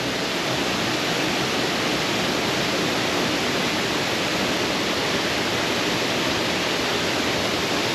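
Steady rushing of falling water, an even hiss that holds one level throughout.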